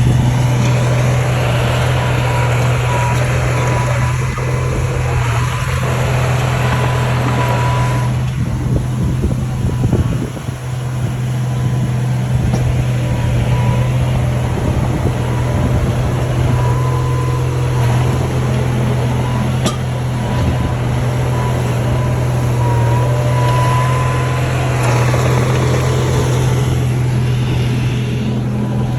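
Shantui bulldozer's diesel engine running steadily with a constant deep drone. A noisier mechanical rush swells and fades over it, and a thin high whine holds throughout.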